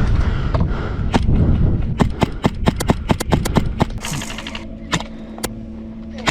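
Airsoft guns firing: a string of sharp shots, several a second, with a short rapid burst about four seconds in and a few single shots near the end.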